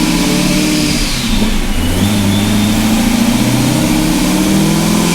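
Supercharged LS3 V8 of a C6 Corvette at full throttle on a chassis dyno, revving up through a pull. It dips briefly about a second in, then climbs steadily, with a high supercharger whine rising alongside the engine note.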